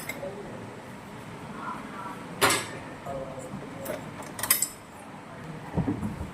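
Metal tools and parts clinking during washing-machine disassembly: two sharp metallic clinks about two and a half and four and a half seconds in, then a duller knock near the end.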